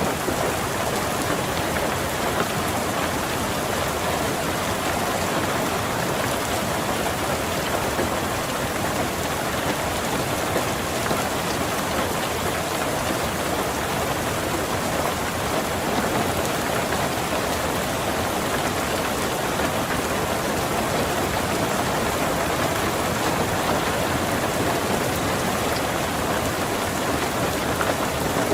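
Steady rain falling on a car, heard from inside, an even unbroken patter with no distinct thunder.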